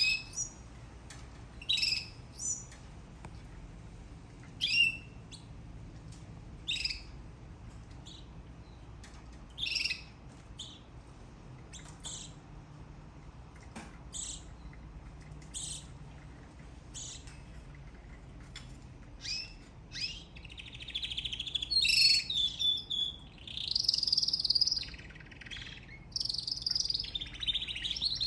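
Canary giving short single chirps every second or two, then breaking into longer, continuous warbling song phrases about twenty seconds in.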